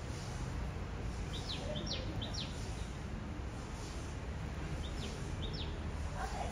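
Birds chirping in short, quick, high notes that sweep downward. They come in two bunches of several notes, about a second and a half in and again about five seconds in, over a steady low background hum.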